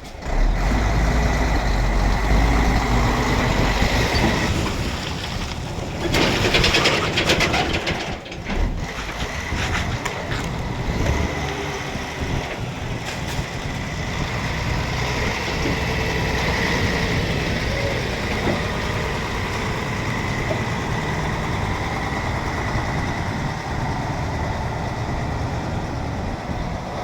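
Container truck running, with a deep engine rumble for the first few seconds and a loud hiss about six to eight seconds in. A steady high tone sounds through much of it.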